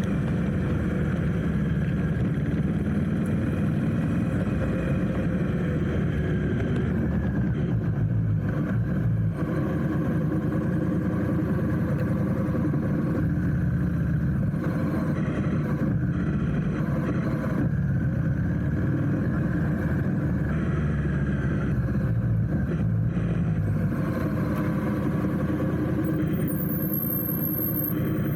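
Motorcycle engine running through traffic, its note rising and falling gently with the throttle over a steady low rumble.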